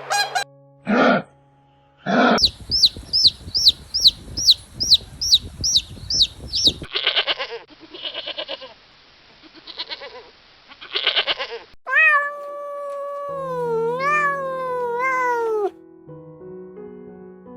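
A string of different farm animal calls in turn: a fast run of high chirps about three a second, then several short noisy bleat-like calls, then one long wavering cry, over soft background music.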